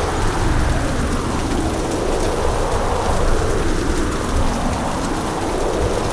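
Heavy hurricane rain, a steady dense rush with a deep low rumble beneath it that swells and eases slightly.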